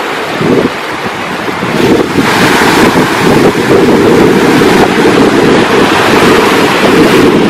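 Wind buffeting the microphone over the rush of ocean surf. It is loud and continuous, and swells up about two seconds in.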